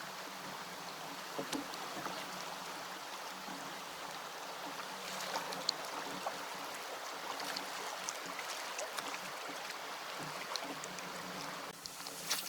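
Steady water noise around a kayak, a hiss sprinkled with many small drips and taps; the hiss eases near the end, with one sharper tap.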